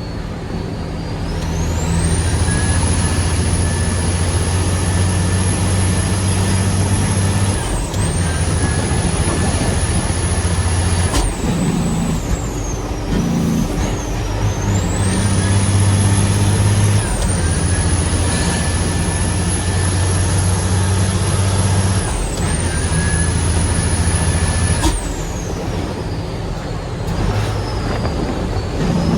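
Heavy diesel dump truck engine pulling under load through a series of gear changes. A high whine rises and holds with each pull, then breaks off about five times as the engine note drops at each shift.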